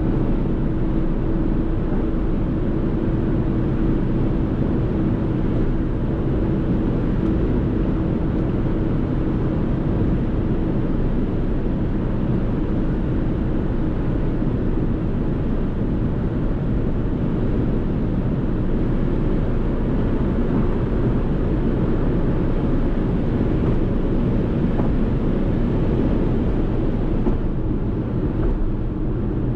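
Steady driving noise from a Fiat Tipo with its 1.0-litre three-cylinder turbo petrol engine running at constant speed under tyre and wind noise, with a steady hum that fades out about halfway through.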